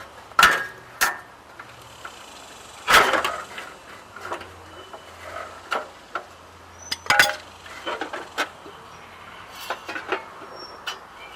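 Metal clanks and knocks of tools on a car's exhaust pipe and muffler while the muffler is being worked loose from the pipe: a string of separate hits with short ringing, the loudest about 3 seconds in and about 7 seconds in.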